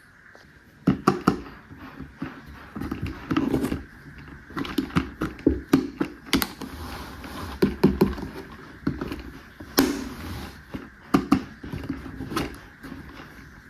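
Plastic toy pieces being handled: an irregular run of clicks, taps and knocks over a low rustle, the sharpest clicks coming about a second in and again near the tenth second.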